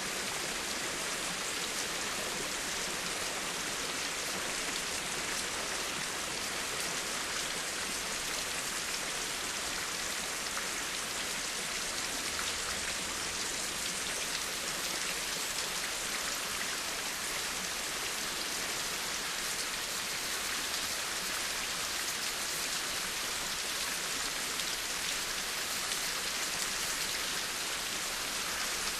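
Steady, dense rainfall, an even hiss of many drops with no single drop or thunder standing out.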